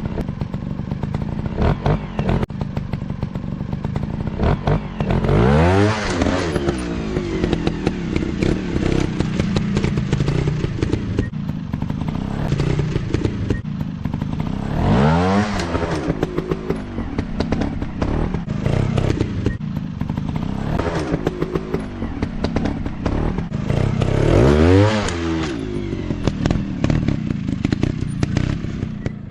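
Dirt bike engine running and revving hard three times, its pitch sweeping up and back down about five seconds in, near the middle and again near the end. Frequent clattering knocks run through it.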